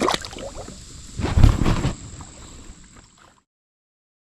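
Knocks and scuffling of handling on a fishing kayak, loudest about a second and a half in, then fading; the sound cuts out abruptly into dead silence near the end.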